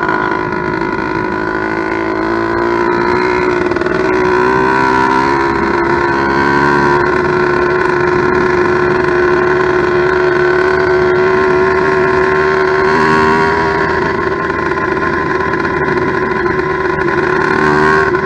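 Motorized bicycle's two-stroke kit engine, a steel-bore cylinder of about 90cc on an 80cc China-girl bottom end, running steadily at one speed on its first start, its carburettor not yet tuned.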